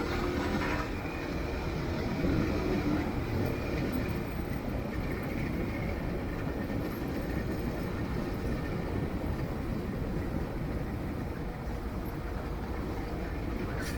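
Steady running noise of a motorcycle on the move.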